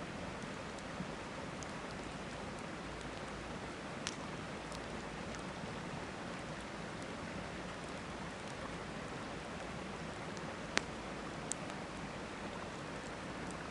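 Steady rush of river water with a few sharp crackles from a wood campfire, the loudest pop about eleven seconds in.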